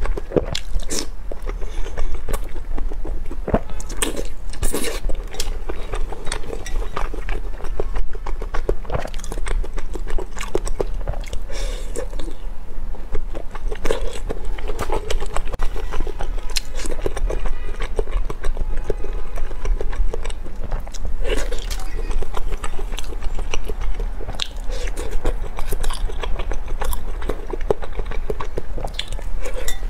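Close-miked chewing and biting of oden fish cakes and fried tofu puffs pulled off bamboo skewers, with many small wet mouth clicks throughout. A steady low hum runs underneath.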